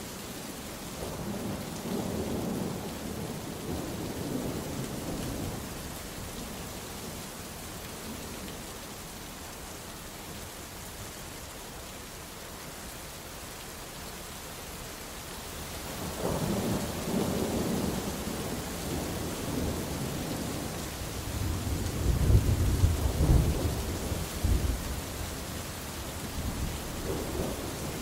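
Steady rain with thunder rumbling: one roll swells about a second in and fades by about six seconds, and another builds from about sixteen seconds to the loudest peals a few seconds later.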